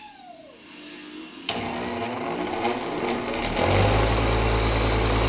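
A machine motor starts abruptly and runs loudly as a steady noise; about two seconds later a strong, steady low hum joins it.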